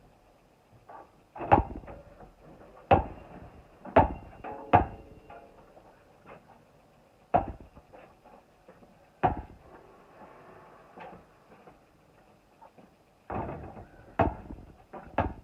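Basketball play: a series of sharp thumps of the ball at uneven gaps, some about a second apart and others two or three seconds apart. A cluster of quicker hits comes near the end.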